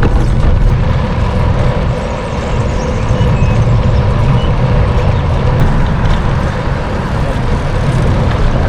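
Wind rumbling on the microphone of a moving bicycle, with road traffic underneath.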